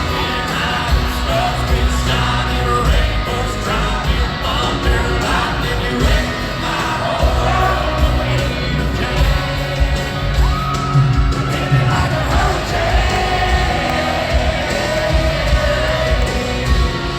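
Live country band and lead singer performing a song, amplified in a large hall, with yells and whoops from the crowd.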